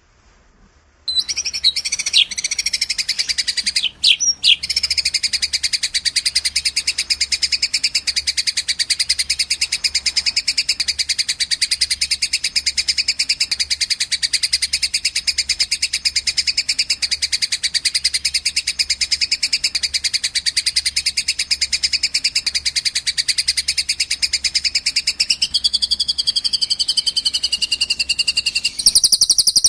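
Recorded songbird song used as training 'masteran': after about a second of near silence, one very long, fast, even trill starts, breaks briefly near four seconds and then runs on unbroken. Near the end a lower, wavering note joins it, and just before the end a louder, higher-pitched call takes over.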